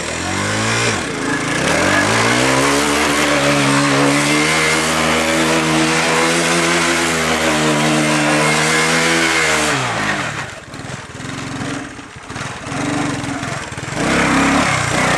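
Postie bike's small single-cylinder four-stroke engine revved up and held at high revs for about eight seconds, then dropping off suddenly. It follows with a few short blips of the throttle, and it revs up again near the end.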